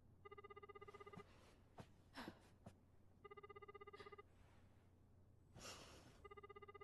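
A telephone ringing faintly: a trilling electronic ring about a second long, repeated three times at about three-second intervals.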